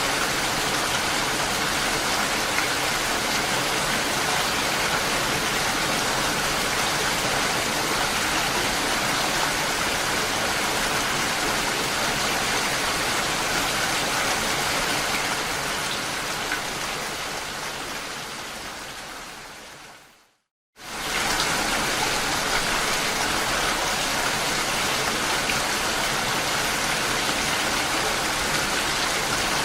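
Steady rain falling, an even hiss of drops. About two-thirds of the way through it fades away over a few seconds to a brief moment of silence, then cuts straight back in at full level, as at the seam of a looped rain recording.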